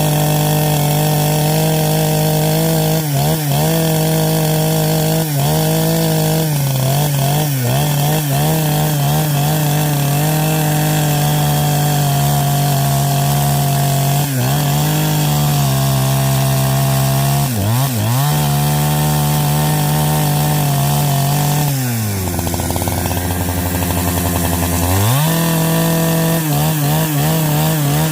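Chainsaw running at high speed and cutting wood, its pitch dipping briefly again and again under load. Near the end the engine slows to a lower pitch for about three seconds, then climbs back up.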